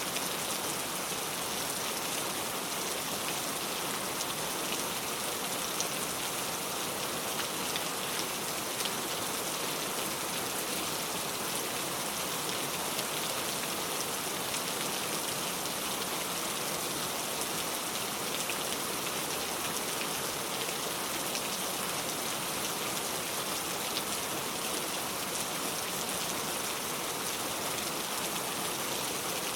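Steady rain falling on a car, an even patter of many small drops with no let-up.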